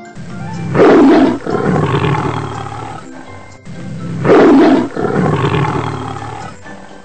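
Tiger roaring twice, about three and a half seconds apart; each roar is loudest at its start and trails off over the next two seconds.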